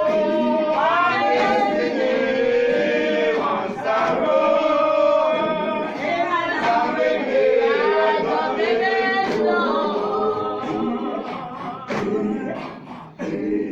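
A group of voices singing together unaccompanied, a hymn-like song with long held and gliding notes.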